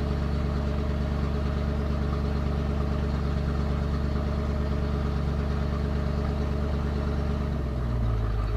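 Carbureted Ford 351 Windsor V8 idling steadily, with a shift in its note and a slight rise in level near the end. The engine doesn't really want to idle, and its idle screw needs adjusting.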